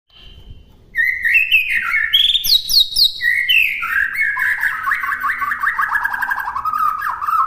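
White-rumped shama singing a fast, varied song of clear whistles and rapid trills, coming in about a second in and running on without pause.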